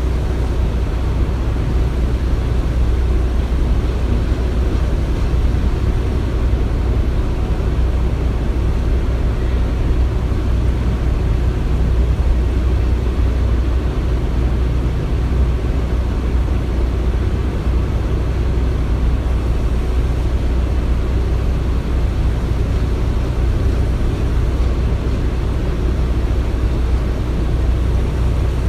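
Construction-site ambience: a steady low machinery rumble, even throughout, with no distinct knocks or hammer strikes.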